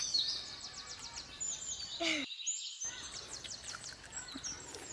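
Small birds chirping and trilling, several high calls overlapping, with fast runs of notes near the start and again past the middle.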